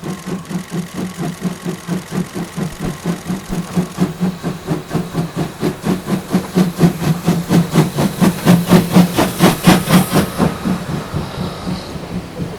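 C58 363 steam locomotive, a 2-6-2 tender engine, working hard under power. Its exhaust beats in quick, even chuffs, about five a second. The chuffs grow louder to a peak about three-quarters of the way through, then fade as it passes.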